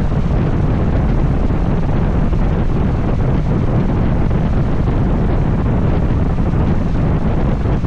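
Heavy, steady wind buffeting on an action camera's microphone on a moving Honda XL750 Transalp motorcycle, with the bike running beneath it.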